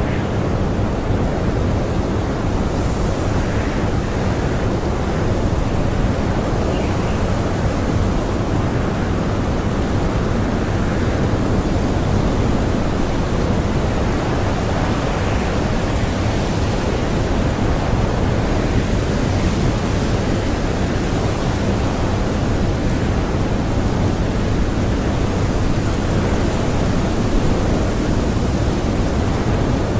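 Blizzard wind blowing hard, a steady, loud rush of noise that stays even throughout.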